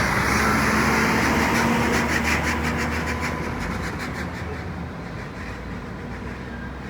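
A vehicle passing close by and moving away, its rumble with a faint rhythmic clatter fading slowly.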